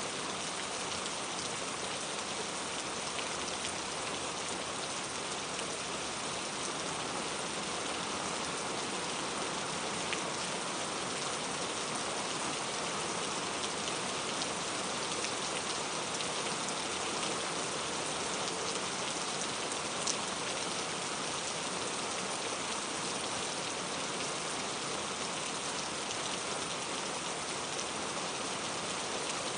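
Steady rain falling, an even hiss of drops with a few sharper drop ticks standing out now and then.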